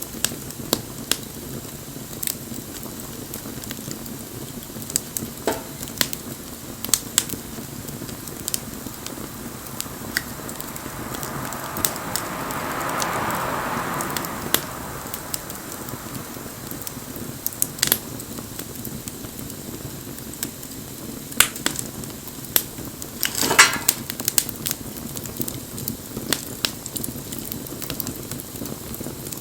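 Wood bonfire burning with a steady hiss and scattered sharp crackles and pops. About halfway through, a soft hissing swell rises and fades over a few seconds, and a quick cluster of louder pops comes about two-thirds of the way in.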